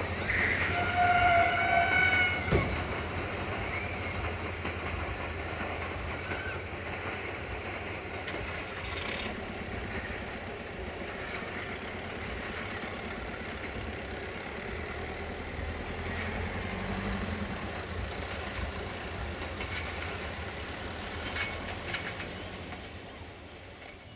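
A passenger train rolling away from the station, a steady low rumble that slowly fades. About half a second in, a single horn note sounds for about a second and a half.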